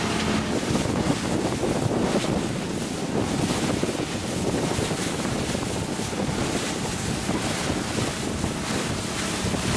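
Wind buffeting the microphone over the steady rush of water from a boat under way at sea.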